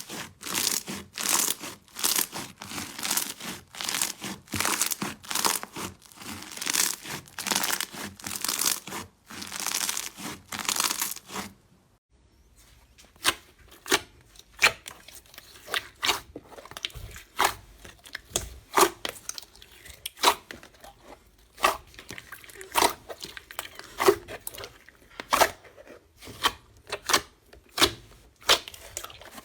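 Slime being squeezed and worked, giving a dense run of crackling, crunching noises. After a short gap about halfway through, it changes to sparser, sharper sticky pops and clicks.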